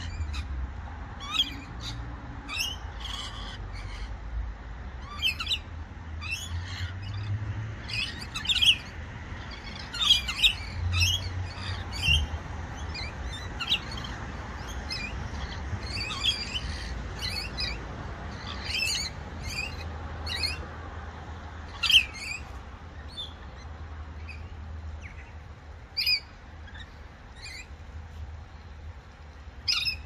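Birds calling in a park: a busy scatter of short, high chirps and squawks from several birds, a few standing out louder, such as around 9, 22 and 26 seconds in.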